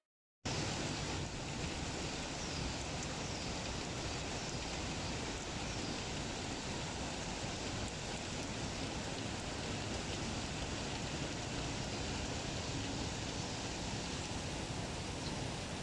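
Heavy rain pouring steadily, a dense, even hiss that starts abruptly about half a second in.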